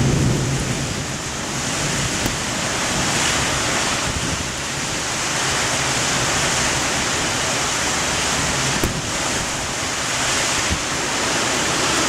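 Heavy rain and strong wind in a thunderstorm: a dense, steady rush that swells and eases in gusts.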